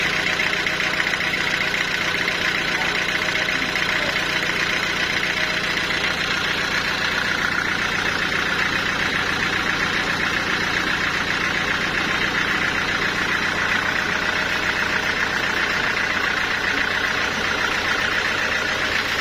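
Sawmill saw machinery running steadily: a continuous engine-like drone with a steady higher whine over it, unchanging throughout.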